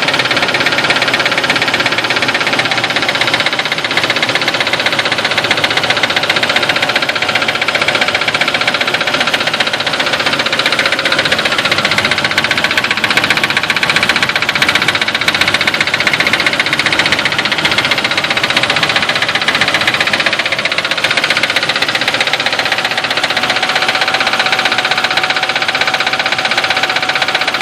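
2002 Nissan Xterra engine running steadily with a fast tapping knock. The noise began after new spark plugs, plug wires and serpentine belts were fitted; the owner wonders whether the Bosch double-platinum plugs are the wrong ones or the knock sensor is at fault.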